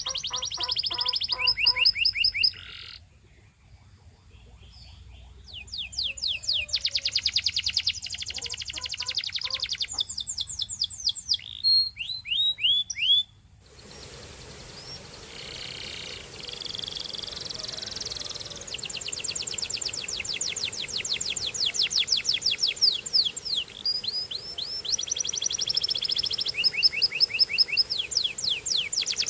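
Canary singing: fast trills of rapidly repeated high notes alternating with runs of down-slurred whistles, with a brief lull a few seconds in. About halfway through, a steady hiss rises behind the song.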